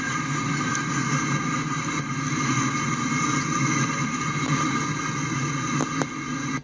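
Freight train boxcars rolling past over the rails: a steady rumble of wheels on track, with a steady high ringing tone over it.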